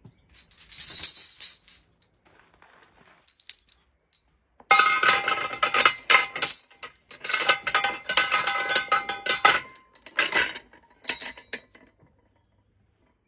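Heavy steel security chain clinking and rattling against a galvanised steel ground anchor in bursts of ringing metal-on-metal knocks. The densest stretch comes in the middle, and the sound stops about a second before the end.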